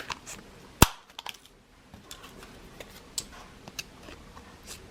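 Paper crafting handled on a table: one sharp click or tap about a second in, then scattered light ticks and paper rustles as cardstock and tools are moved about.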